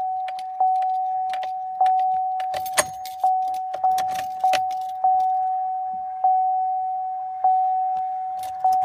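A car's dashboard warning chime dinging repeatedly on one tone, roughly every half second to second, with scattered light clicks, while the ignition is switched on to cycle a diesel engine's glow plugs in extreme cold.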